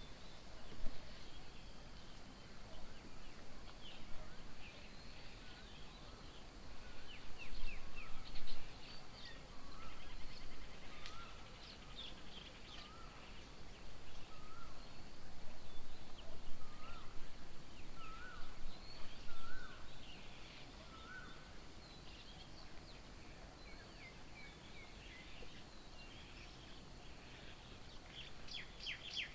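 Several wild birds calling and chirping at once. Through the middle, one bird repeats a short call about once a second, edging slightly higher in pitch, and a fast run of chirps starts near the end.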